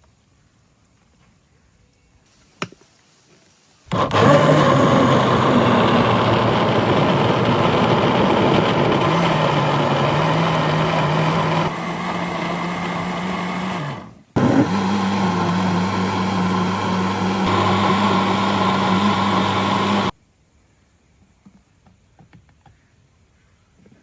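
Electric blender motor running in two long bursts, about ten seconds and then about six. Its hum shifts in pitch as the load changes and winds down briefly in the short pause between the two runs.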